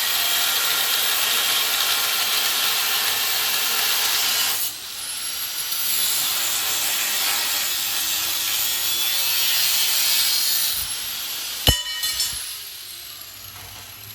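Angle grinder cutting metal, most likely expanded-metal rack stock: a steady, loud cutting noise that breaks off briefly about five seconds in and then resumes. It stops near the end, followed by a single sharp ringing metal clank as the grinder spins down.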